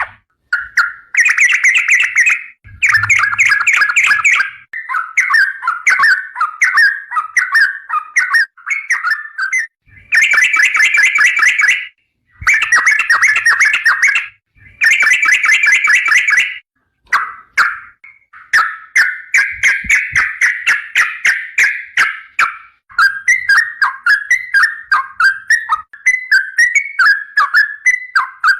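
Yellow-vented bulbul (trucukan) singing a long, loud run of song: dense bursts of rapid chattering notes a second or two long, broken by short pauses, turning into a string of quick separate notes near the end.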